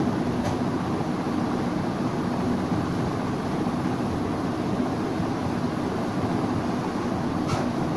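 Steady mechanical hum and rumble with a faint low tone, a faint click about half a second in, and a brief sharper sound near the end.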